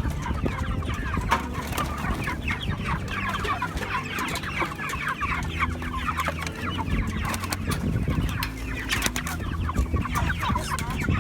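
A flock of Cornish Cross broiler chickens peeping and clucking together, a dense run of short, falling calls.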